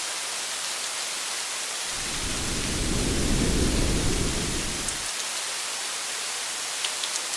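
Steady rain hiss with a low rumble of thunder that swells about two seconds in and fades out about three seconds later.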